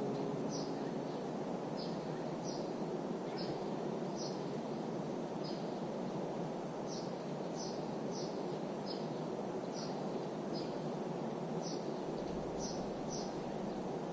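A small bird calling with short, high chirps, repeated about once or twice a second at uneven intervals, over a steady rushing background noise.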